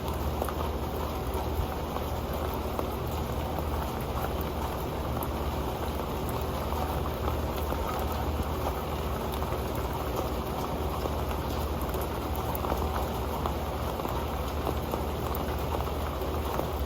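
Steady rain falling on an old pan, a dense stream of small drop ticks with no let-up.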